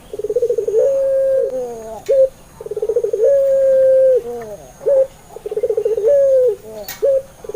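Puter pelung (Barbary dove) cooing: three repeated call phrases, each a fast rolling stutter that runs into a long drawn-out coo sliding down at the end, followed by a short coo or two. This is the long-voiced call used as a lure to get other puter doves to answer.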